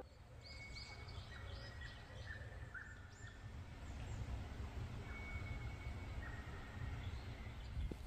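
Small birds calling: a quick run of short high chirps through the first few seconds and several thin, flat whistled notes, over a faint steady low rumble.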